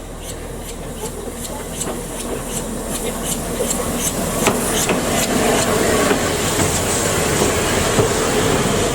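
Narrow-gauge train running, with a fast, even clicking about three times a second over a rumbling hiss that grows louder.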